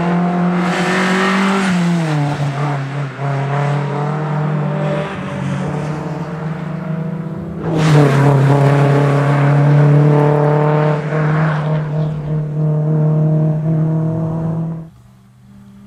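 MG ZR 160 rally car's 1.8-litre K-series four-cylinder engine running hard at speed, its note dropping in pitch about two seconds in. About eight seconds in it gets much louder as the car passes close by, and the sound cuts off suddenly near the end.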